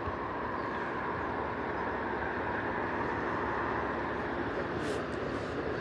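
A train running past on the rails: a steady noise of wheels on track that swells slightly midway and eases toward the end.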